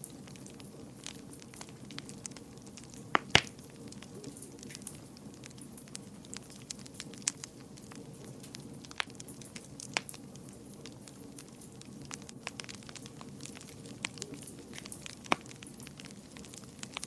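Fire in a fireplace crackling, with irregular sharp pops; the two loudest come close together about three seconds in. Under the pops runs a steady low rumble.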